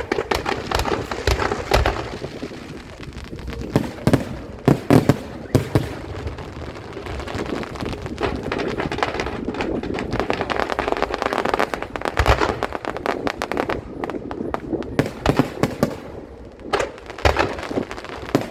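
Aerial fireworks show: shells bursting in rapid succession, sharp bangs over continuous crackling.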